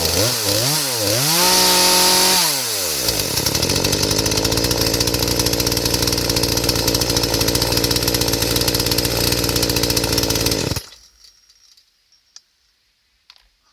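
Two-stroke chainsaw engine revved up and down several times, held at high revs for about a second, then dropped to a steady idle. It stops suddenly about eleven seconds in, followed by a few faint clicks.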